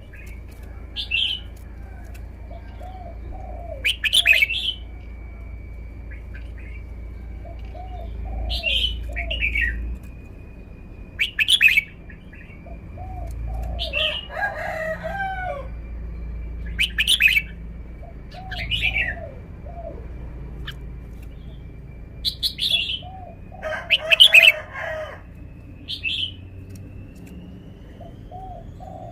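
Red-whiskered bulbul singing short phrases, one every two to three seconds or so, over a faint steady high tone.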